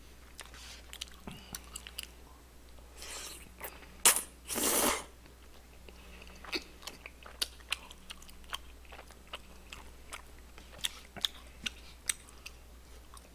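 Close-miked chewing of tteokbokki, chewy rice cakes and fish cakes: wet mouth clicks and smacks throughout, with a few louder mouth noises about three to five seconds in.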